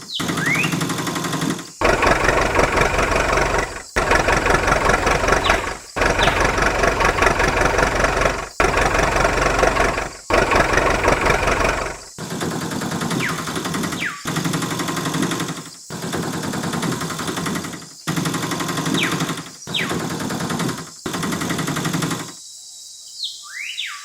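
A motor running with a steady buzzing rattle, broken into blocks of about two seconds by abrupt cuts, with a few short rising chirps here and there.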